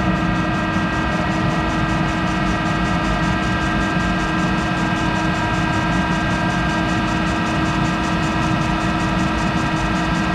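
Monarch 10ee toolroom lathe running steadily while machining a hardened tool holder: an even whine made of several constant tones over a low rumble, unchanging throughout.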